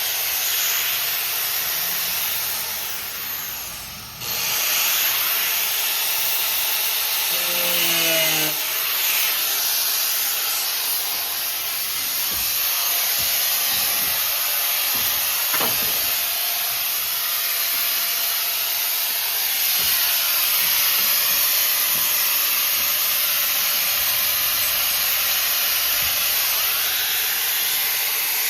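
Steady hissing from metalworking on the steel-tube subframe connectors. It breaks off briefly about four seconds in, then runs on unbroken.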